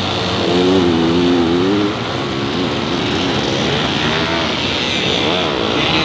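Vintage motorcycle engines racing, their pitch rising and falling as the riders open and close the throttle, with more than one engine heard at once at times.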